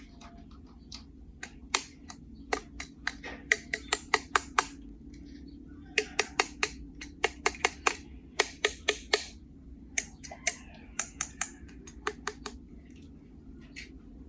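Sharp clicks of hard plastic and die-cast toy parts being handled, coming in quick runs of four to six clicks about five a second, over a low steady hum.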